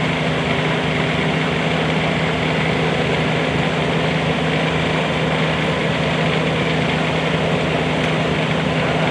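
Bobcat 320 mini excavator's diesel engine running at a steady idle.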